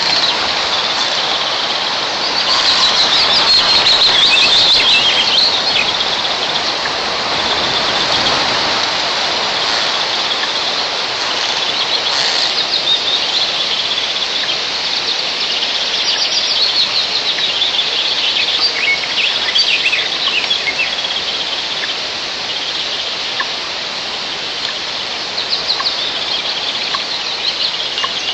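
Strong wind rushing over the nest-camera microphone in a tall pine, with repeated rapid series of high-pitched bird calls coming and going over it.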